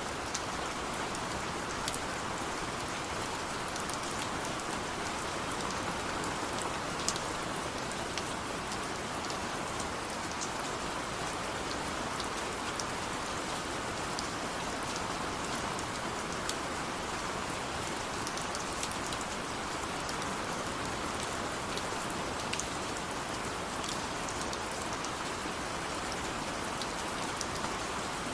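Steady rain with a dense, even hiss and scattered sharp drips and drop ticks throughout.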